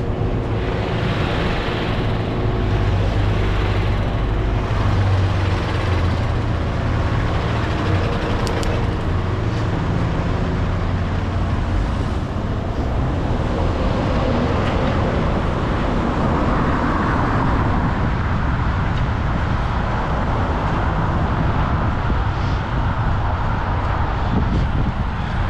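Steady road traffic close by: vehicle engines and tyres passing, with a heavy engine's low, steady hum strongest through roughly the first half.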